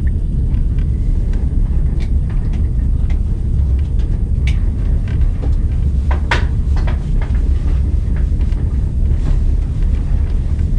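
Passenger train rolling, heard from inside the compartment: a loud, steady low rumble with a few scattered clicks and knocks.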